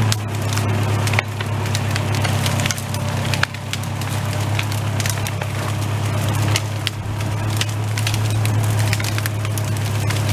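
A machine engine running at a steady pitch while wood cracks and snaps again and again as storm-downed logs and roots are pulled free.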